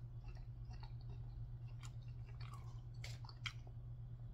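A person chewing a mouthful of pasta, with scattered faint wet mouth clicks, over a steady low hum.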